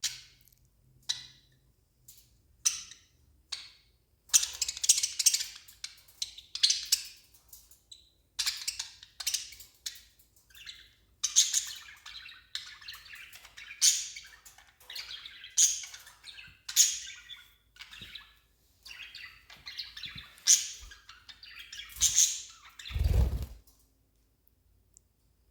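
Budgerigar chirping and chattering in quick bursts of short high chirps, with a low thud near the end.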